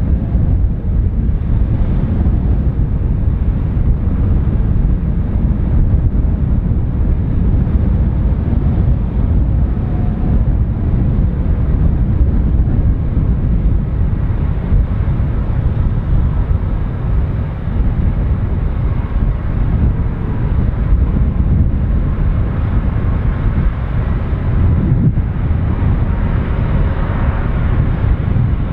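Air China Airbus A330-343's jet engines giving a loud, steady low rumble as the airliner lands.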